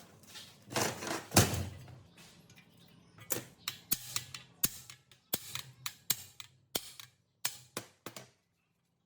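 Workshop handling of tools and machine parts: two loud scraping knocks about a second in, then a run of sharp clicks and taps, roughly two a second, stopping shortly before the end.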